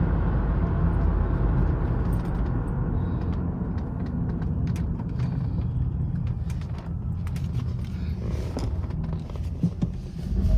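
A 1994 Chrysler Town & Country minivan driving, heard from inside the closed cabin: a steady low rumble of engine and road noise, with a few light clicks near the end.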